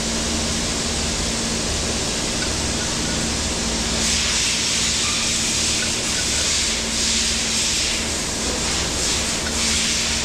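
Pressurised spray hissing in several bursts, starting about four seconds in, over a steady machine hum with a held tone, during cleaning of a transmission valve body.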